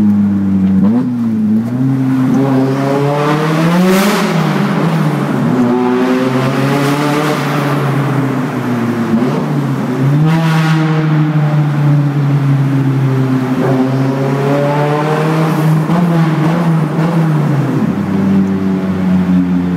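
Nissan 180SX's straight-piped dual exhaust (no mufflers) with the engine running loud, rising in revs and dropping back about four times.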